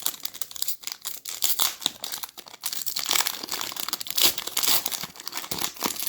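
A trading-card pack's foil wrapper being torn open and crinkled by hand, a dense run of irregular crackling and rustling.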